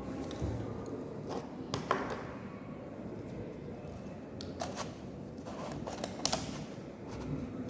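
Scattered clicks and light knocks of small craft parts and tools being handled, over a steady low background hum.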